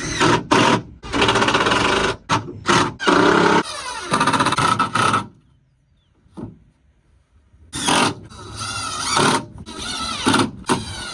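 Handheld power tool run in a series of bursts, a few short ones and then longer runs of one to two seconds, its motor pitch sweeping as it loads and unloads. It stops for about two seconds in the middle of the run, with only a single click.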